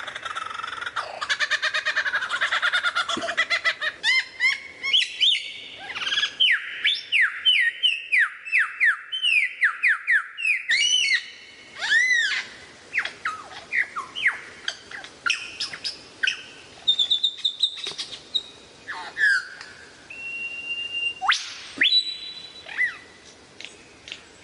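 Lyrebird singing a varied song of many different calls: chattering notes, a long run of quick repeated sweeping notes in the first half, then scattered whistles and single calls.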